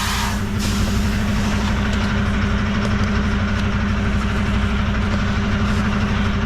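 Semi-truck diesel engine idling steadily, with a brief hiss right at the start.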